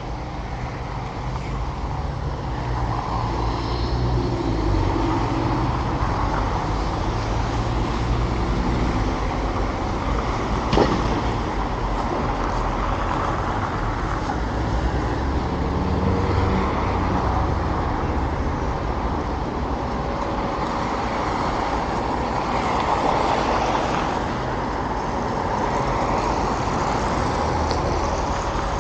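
Road traffic passing: a steady rumble of cars and heavier vehicles that swells and fades as they go by, with one sharp knock about eleven seconds in.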